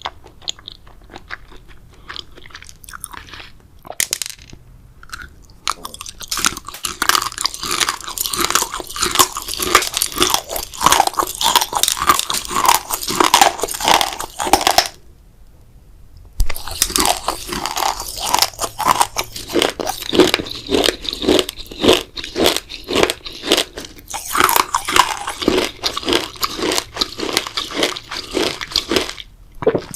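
Close-miked ASMR eating: a person biting and chewing grape jelly dessert, with rapid clicking mouth sounds. The chewing is quieter for the first few seconds, stops briefly about halfway, then resumes.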